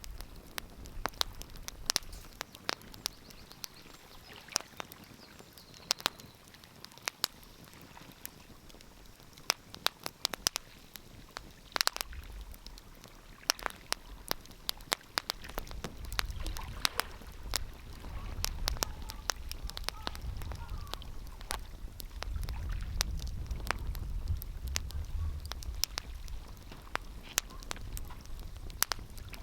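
Wood fire crackling, with sharp pops at irregular intervals over a low rumble that swells and fades.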